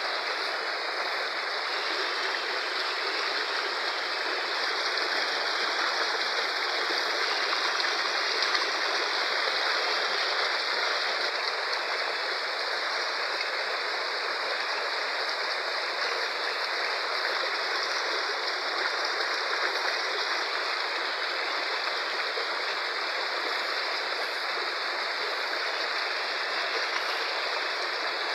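Fast-flowing river rushing, a steady unbroken roar of water.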